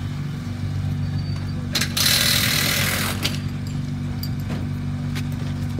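Mini Challenge race car's engine idling steadily, with a loud hiss about two seconds in that lasts about a second and a half, and a few light clicks near the end.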